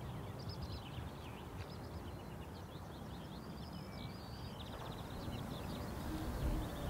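Small birds chirping and twittering, with a quick trill about four and a half seconds in and another near the end, over a steady low background hum.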